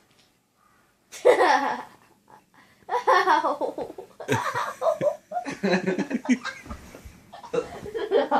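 A person laughing hard in several loud bouts with short breaks, starting about a second in.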